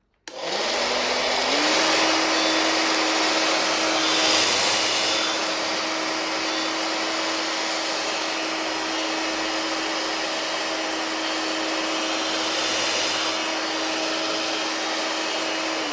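Hairdryer switched on about a third of a second in: the motor's whine comes up, steps higher about a second and a half in, then runs steadily over the rush of air. The motor bearing, just repaired with a lathe-turned sleeve on the worn shaft, runs without its earlier racket.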